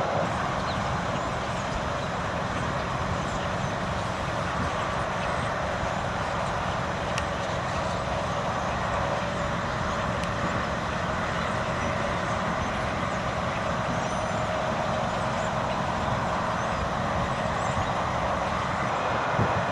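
Steady hum of city traffic, with a couple of low thumps near the end.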